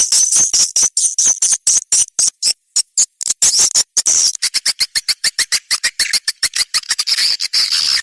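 Recorded swiftlet calls, a lure track for swiftlet houses: a quick run of sharp, high chirps with a short break about three seconds in, then a faster run that thickens into a dense twitter near the end.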